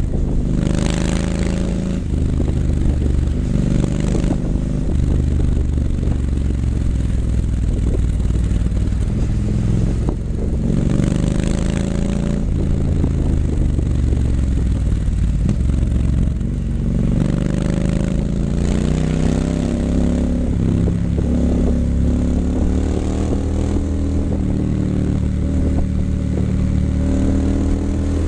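2019 Triumph Scrambler 900's parallel-twin engine running through an H-pipe with Vance & Hines mufflers, a continuous exhaust note whose pitch climbs several times as it accelerates, then settles back.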